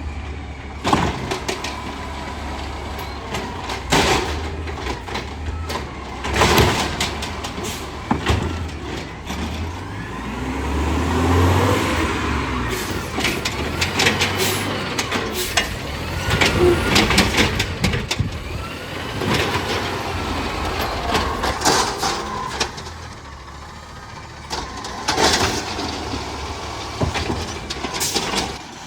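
Garbage truck working its route: the diesel engine runs and revs up and back down once midway, and repeated sharp bangs and clanks sound every few seconds as it collects.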